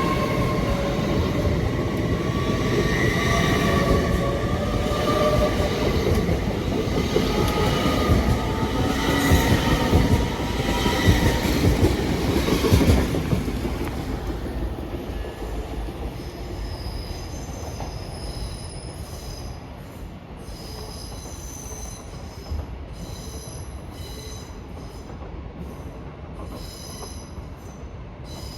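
Train running through the station with squealing wheels and brakes, loud for about the first thirteen seconds, then fading away with odd high squeaks.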